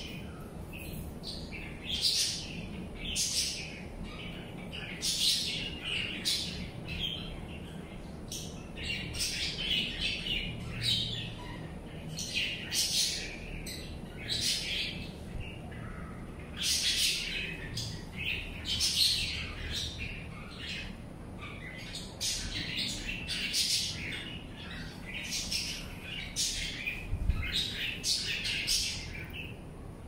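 Caged birds calling: short, high, scratchy calls repeating every second or so.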